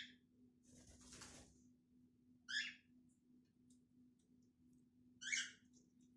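Cockatiel chick giving short, raspy, hissing calls: a softer, longer one about a second in, then two short, louder ones a few seconds apart.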